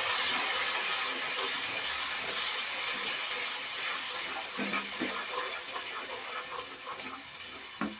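Tomato purée and fried onions sizzling in hot oil in a non-stick kadhai while being stirred with a wooden spoon. The hiss slowly dies down, with a few light knocks from the spoon around the middle and near the end.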